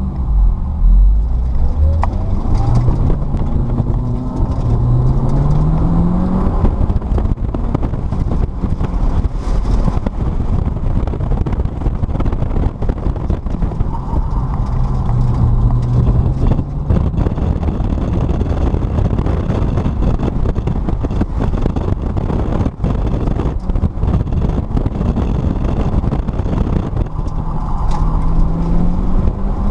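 Mitsubishi Lancer Evolution X's turbocharged 2.0-litre four-cylinder engine heard from inside the cabin, pulling away from a standstill. Its revs rise twice in the first few seconds as it accelerates through the gears, then rise and fall with the throttle through the cone course, rising again near the end.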